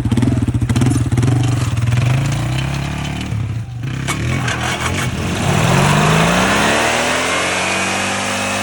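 Lawnmower engine running under load, dipping briefly with a few clicks, then revving up steeply about five seconds in and holding at high revs.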